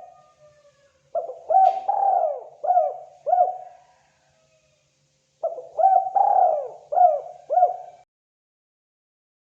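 Spotted dove (terkukur) cooing: two phrases of about five coos each, separated by a pause of about a second and a half.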